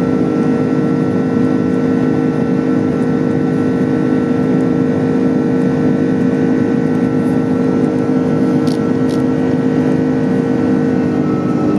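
Airliner cabin noise: a steady, loud rush of engines and airflow with a constant hum of several fixed tones, whose pitch shifts slightly near the end.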